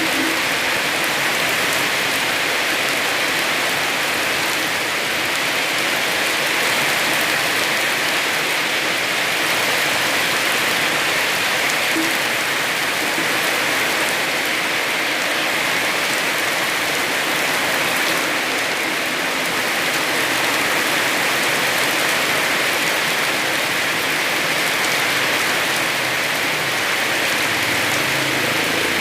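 Heavy rain falling steadily, an even wash of drops with no let-up.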